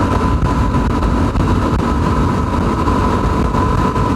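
Yamaha WR250R's single-cylinder four-stroke engine running at a steady cruising speed, its pitch holding even, under a dense low rumble of wind and road noise.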